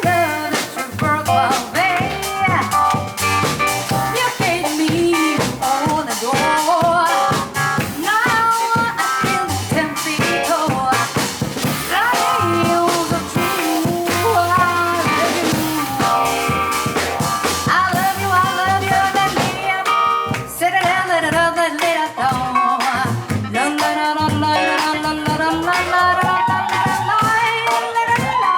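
Live jazz combo of piano, double bass and drum kit playing a busy passage.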